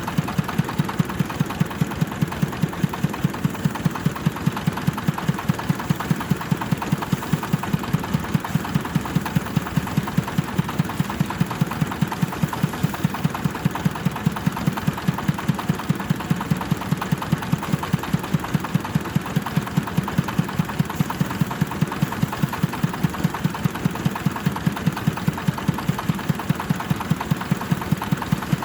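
Kubota diesel engine running a rice thresher, with a sharp regular knock about four times a second over a steady machine drone.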